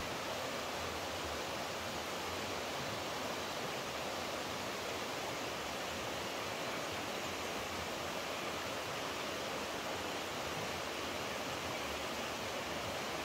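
Rushing water making a steady, even hiss, with no single splashes or other sounds standing out.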